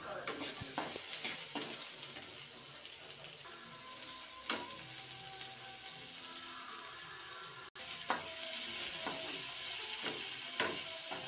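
Chopped onions and green chillies sizzling in coconut oil in a non-stick pan, stirred with a slotted steel spatula that scrapes and clicks against the pan now and then. The sound breaks for an instant about three-quarters of the way through, and the sizzle is a little louder after it.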